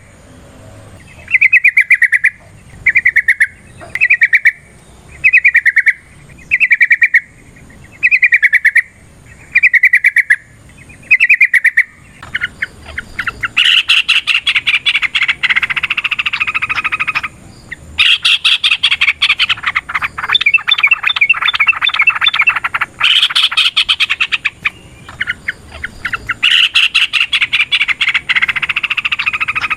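Yellow-vented bulbul calling: for the first dozen seconds, short stuttering calls about once a second, then long, rapid, chattering song phrases lasting several seconds each, with short breaks between them.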